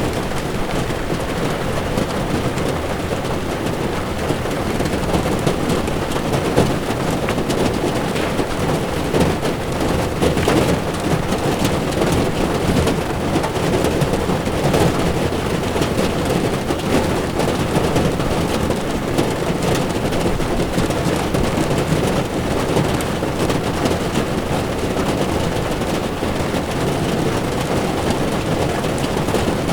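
Heavy rain pattering steadily on a car's windshield, with a low rumble of tyres on the wet road beneath.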